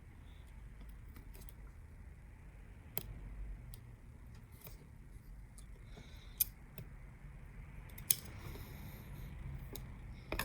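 Scissors snipping double-sided adhesive tape: a few separate sharp clicks and snips over a low steady hum.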